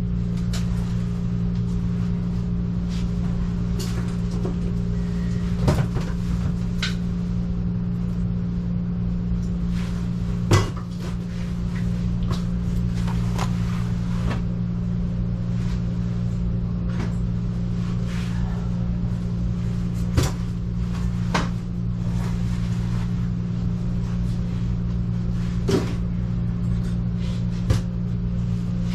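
A steady low mechanical hum, with scattered sharp clicks and knocks of parts and tools being handled.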